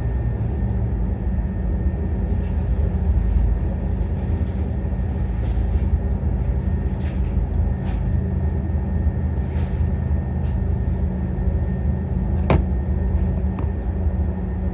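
Scania N230UD double-decker bus's five-cylinder diesel engine running steadily, heard from on board, with a faint steady whine and a few short rattles and knocks from the body, the sharpest one near the end.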